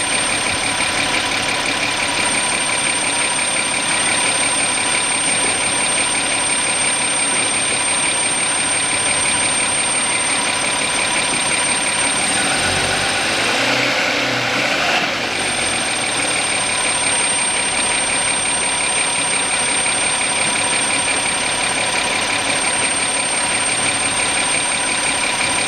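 Warmed-up Audi Q7 3.6 VR6 petrol engine running with a steady high-pitched whistling squeal. Around the middle the revs are raised and the whistle drops out briefly, fading as revs rise rather than growing; the mechanic takes it for air being sucked in, not the water pump the owners were told was to blame.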